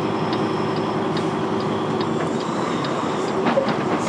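Semi truck's diesel engine idling, heard from inside the cab, with the turn signal ticking steadily about two and a half times a second.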